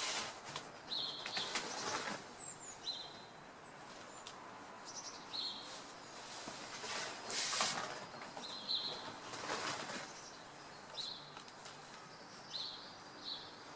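Small birds giving short, repeated chirps every second or two, with a few brief whooshing rushes of noise among them.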